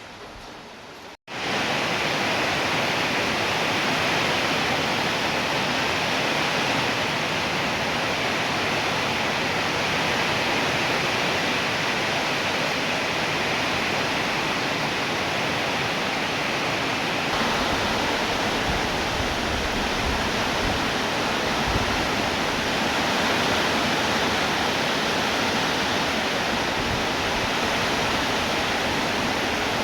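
Rain falling steadily. About a second in, the sound drops out for a moment and returns much louder, as an even downpour with no pauses.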